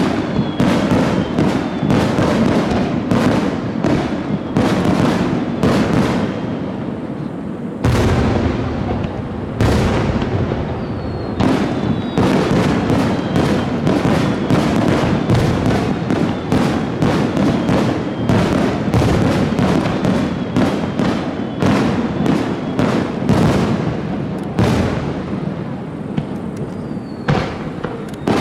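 Aerial fireworks display: a rapid, continuous barrage of shell bursts and crackling, several per second, with a heavier boom about eight seconds in.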